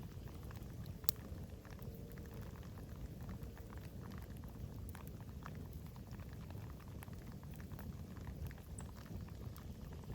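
Campfire crackling: scattered small snaps and ticks over a steady low rumble, with one sharp, louder pop about a second in.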